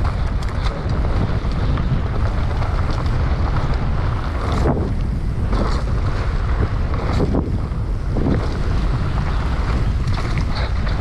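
Heavy wind rumble on the camera microphone from a mountain bike descending at speed, with tyre noise and scattered rattles and clicks from the bike on the rough trail.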